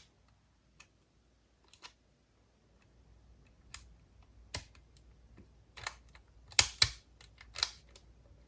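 Sharp plastic clicks from handling an Aiwa HS-P202 MK3 cassette walkman and pressing its buttons, the unit showing no life. The clicks are single and spaced out at first, then come in a quicker cluster about six seconds in.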